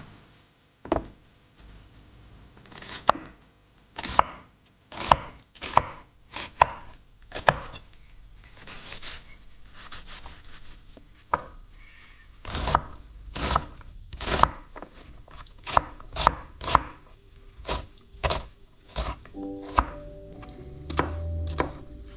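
Kitchen knife chopping on a cutting board, about one or two cuts a second at an uneven pace.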